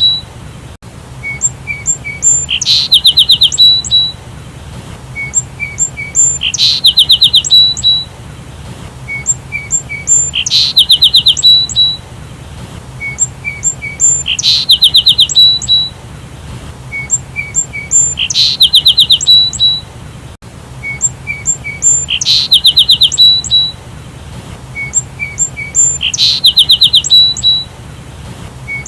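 Sparrow chirping: a quick run of high chirps followed by a few short lower notes, the same phrase repeating about every four seconds over a faint low hum.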